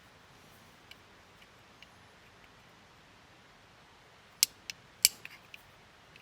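Faint steady hiss with scattered small ticks, then two sharp clicks about four and five seconds in, followed by a few lighter clicks.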